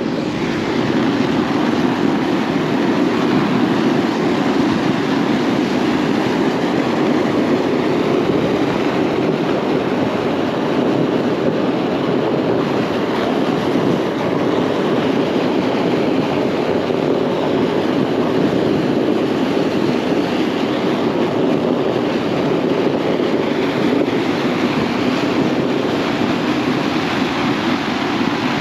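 Vehicle tyres rolling over packed snow, a steady crunching with no let-up.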